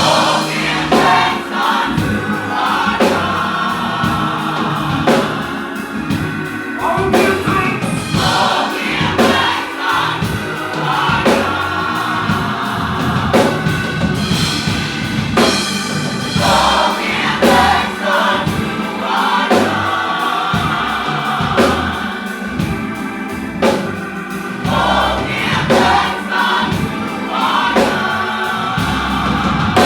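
Gospel choir singing with a full backing band of drum kit, bass and keyboard, keeping a steady beat.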